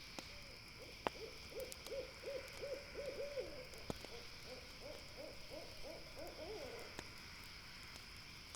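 An owl giving a long run of short hoots, about three a second, with a brief break midway, over a few sharp crackles from a campfire and a steady high hiss.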